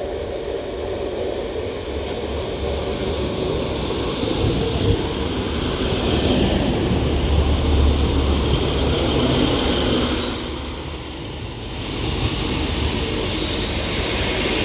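Two-car-pair Northern class 150 Sprinter diesel multiple units pulling into the station and slowing, a rumble of wheels and underfloor diesels that builds through the middle. A thin, high brake squeal comes in about ten seconds in and again near the end as the train brakes to a stop.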